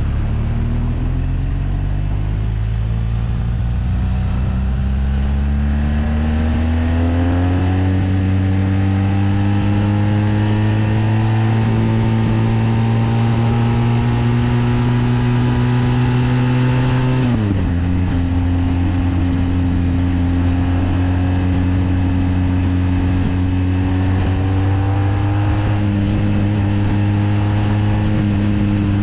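Sport motorcycle's engine under way, its note climbing slowly as the bike pulls for about seventeen seconds, then dropping suddenly at an upshift about halfway through and running on steadily, rising a little again near the end, with a steady rush of wind noise beneath.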